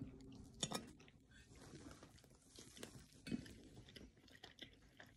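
A person faintly chewing a mouthful of wheat cake, with a few small mouth clicks.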